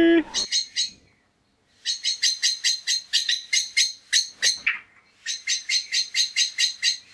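Bird-like chirping: short, high chirps repeated about five times a second, in three runs separated by silent gaps.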